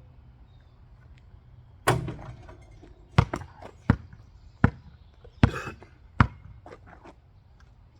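Basketball bouncing: a first hard bounce about two seconds in, then a run of dribbles about one every three-quarters of a second.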